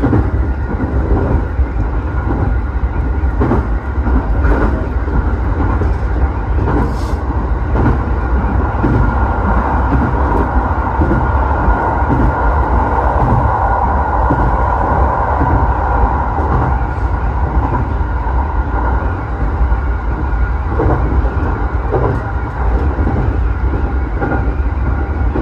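Electric commuter train running between stations, heard from inside the car: a steady low rumble with irregular clicks of the wheels over rail joints. The running noise swells for several seconds in the middle.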